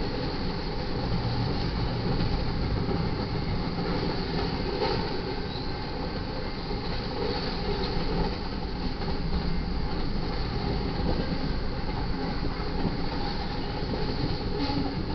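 Double-stack intermodal freight train's well cars rolling past on the track: steady rolling noise of steel wheels on rail, with a few faint clicks.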